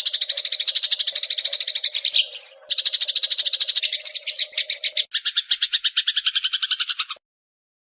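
Eurasian tree sparrows giving fast, agitated fighting chatter, a rapid string of high chirps at about ten a second, with a brief whistle about two and a half seconds in; the chatter cuts off suddenly near the end.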